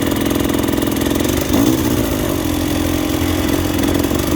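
Two-stroke dirt bike engine running steadily, with a brief rev about a second and a half in.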